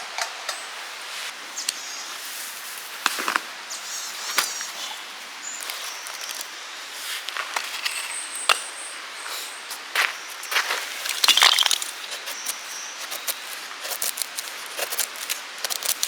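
Wood campfire crackling, with irregular sharp pops and snaps over a steady hiss and a busier cluster of cracks about eleven seconds in.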